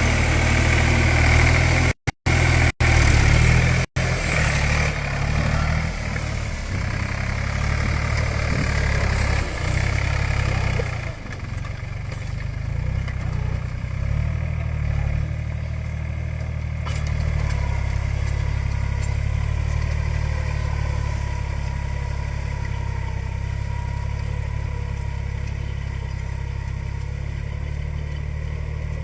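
A New Holland 47 HP tractor's diesel engine running with a steady low beat. The seller says its beat has turned smooth since a carbon-cleaning additive was injected. The sound cuts out briefly a few times about two to four seconds in.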